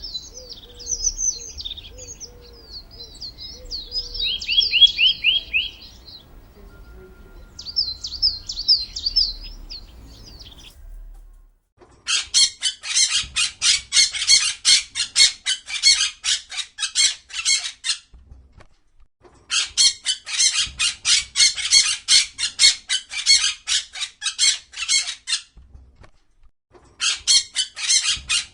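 Songbirds chirping and singing in short, sliding phrases for about ten seconds. After a short break, three bouts of several seconds each of a rapid, harsh, pulsing call, about four pulses a second.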